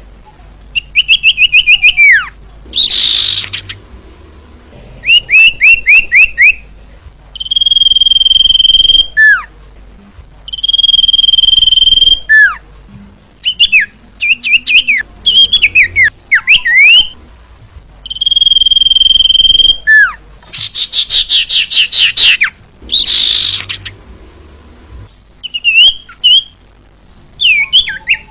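Iora (cipoh/sirtu) song, loud and continuous: long steady whistles about a second each, alternating with fast runs of sliding notes and rapid chirping trills.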